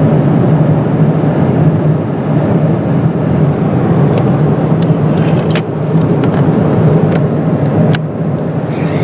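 Boeing 777-200ER cabin noise in cruise: the steady roar of airflow and engines heard from a window seat, with a low steady hum underneath. A few light clicks come in the middle.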